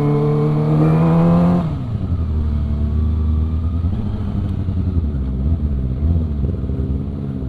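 Kawasaki ZX-25R's 250 cc inline-four engine running under way, holding a steady note for about the first second and a half, then dropping suddenly to a lower, slightly wavering note.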